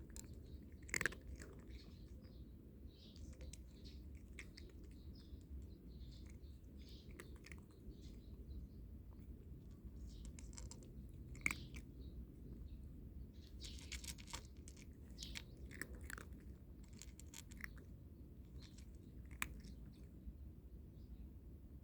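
A cat crunching dry kibble: faint, irregular chewing crunches, with a few sharper clicks.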